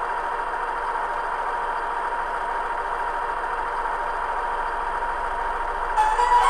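Diesel railcar engine idling steadily with a thin steady high tone over it, the recorded KiHa 110 sound played by the DCC sound decoder in an HO-scale model. About six seconds in, a chiming station departure melody starts.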